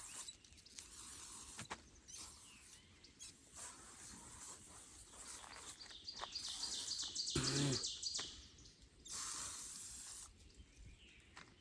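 Aerosol bug spray hissing in several bursts, the longest around the middle and another near the end. A brief louder knock falls in the middle of the spraying.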